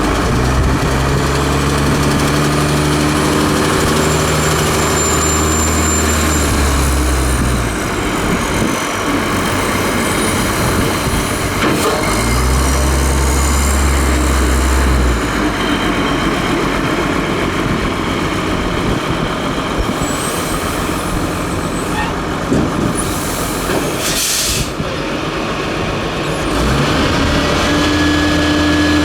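Ford L8000 garbage truck's diesel engine running, revving up twice to drive the Loadmaster packer's hydraulics, with a high pump whine that rises and falls during each rev. A short burst of air hiss sounds near the end, before the engine revs again.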